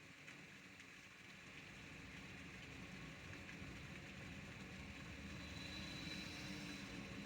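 Faint steady rain ambience under a low rumble that slowly grows louder.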